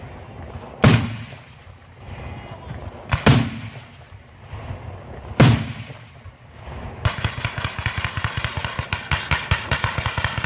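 Fireworks: three loud aerial shell bursts about two seconds apart, each with a rumbling echo, then from about seven seconds in a fast, continuous volley of cracks as a ground barrage fires.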